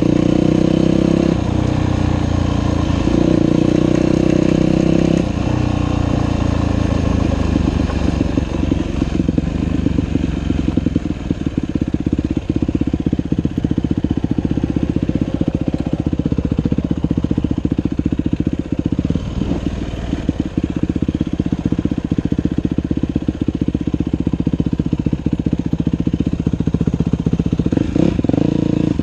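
Dirt bike engine revving up and down over the first few seconds, then running steadily at low revs.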